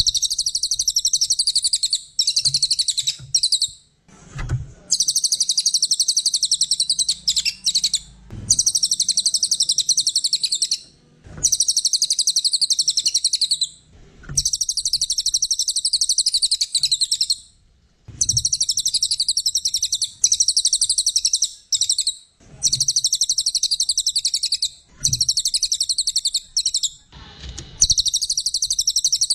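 A cililin songbird singing continuously in bouts of rapid, high-pitched chattering trills. Each bout lasts two to three seconds and is separated by brief pauses. This energetic, nonstop singing is what birdkeepers call gacor.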